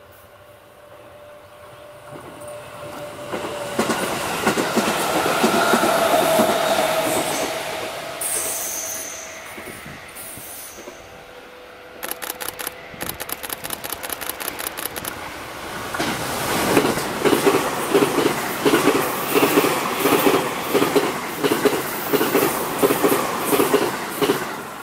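A JR East 211-series electric train and an E257-series limited express on a sharp curve. First a rising rumble with a steady wheel squeal, then a run of quick clicks. Then the 211 series passes close with a rhythmic clickety-clack of its wheels over the rail joints, about two clacks a second.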